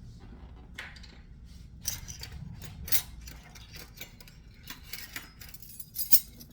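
Scattered clinks and knocks of kitchen utensils against a pan and dishes, a few sharper knocks standing out among lighter taps, over a low steady hum.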